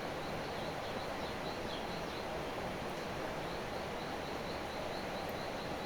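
Steady outdoor background noise with a small, high chirp repeated about four times a second, which pauses for about a second midway and then resumes.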